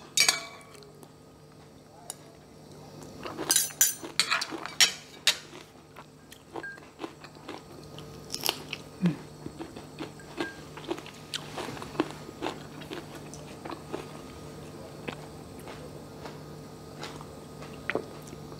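Close-miked chewing and biting of crunchy stir-fried mustard greens and rice, with a run of louder clicks of a spoon and fork on a plate a few seconds in. A faint steady hum lies underneath.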